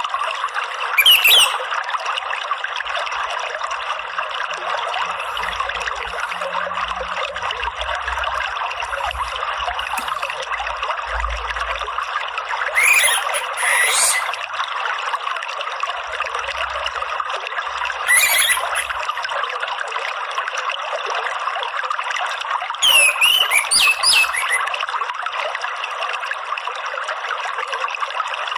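Running water trickling and splashing steadily, with short whistled calls of an orange-headed thrush (anis merah) breaking in at a few points, a quick cluster of them near the end.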